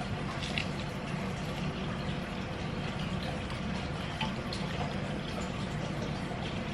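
Creamy sauce simmering in a skillet: a steady bubbling hiss with scattered small pops.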